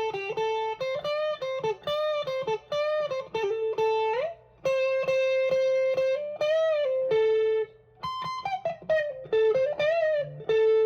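Electric guitar through a Tube Screamer-style overdrive pedal into a Vox AC10 amp, playing a single-note lead line with string bends and vibrato, landing on a held note at the end.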